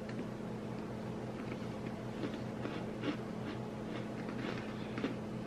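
Faint crunching and mouth clicks of people chewing shortbread sandwich creme cookies, a few soft crunches scattered through, over a steady low electrical hum.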